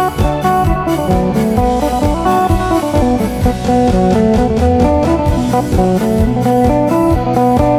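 Electric phin, a three-string Isan lute with a solid one-piece body and two pickups, played through an amplifier in a fast run of plucked melody notes, over a steady low beat.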